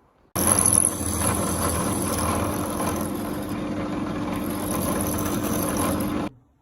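An electric power tool running steadily for about six seconds, a motor hum with a hissing top, starting and stopping abruptly.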